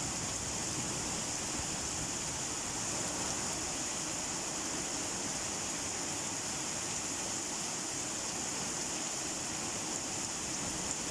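Steady, even rainfall with a constant hiss, no single drops or thunder standing out.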